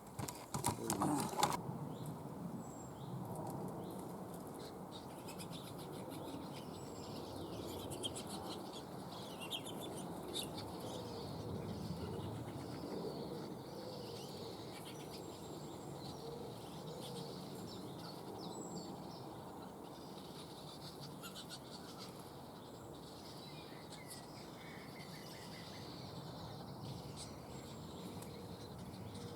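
Short, scattered bird chirps over a steady low rustling background, after a brief burst of knocking and rustling at the very start.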